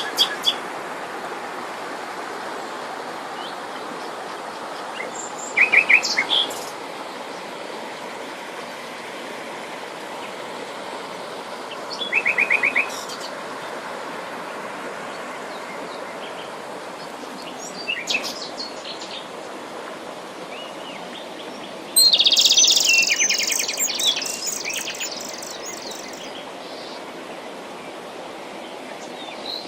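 Small songbirds singing in short trilled phrases about every six seconds, with a longer, louder burst of chirping about three-quarters of the way through, over a steady rushing background noise.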